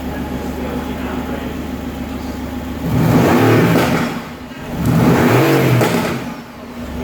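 Mercedes-AMG GT R's twin-turbo V8 idling, then blipped twice, about three and five seconds in: each rev climbs for about a second and falls back to idle.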